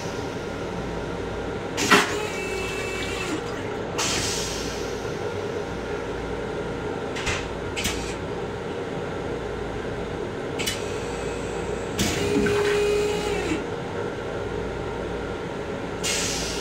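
Steady running noise of a Long Island Rail Road M7 electric train car, heard from inside the car's small restroom. Scattered knocks and rattles break into it, the sharpest about two seconds in, and a brief whine sounds twice, about two seconds in and again about twelve seconds in.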